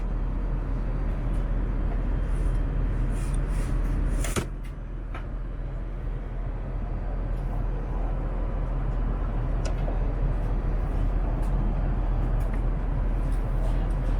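Steady rumble and rush of an Airbus A380 cabin in flight, with a few light clicks and knocks. The loudest click comes about four seconds in, where the level briefly drops.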